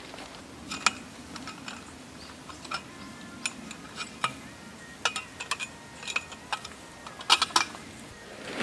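Irregular sharp clicks and taps, a dozen or so, with a quick cluster near the end and a faint ringing tone after some of them in the middle.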